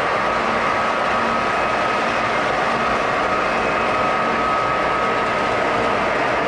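Model electric train running steadily on its track: continuous wheel-on-rail and gear noise with a faint motor hum.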